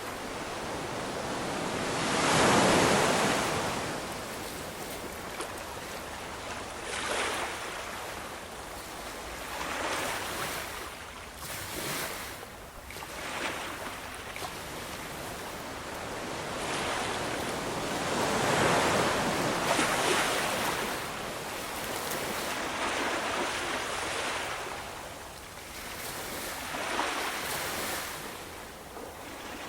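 Ocean waves breaking and washing in, each wave a rush that swells and fades. The biggest breakers come about two seconds in and again about two-thirds of the way through, with smaller ones between.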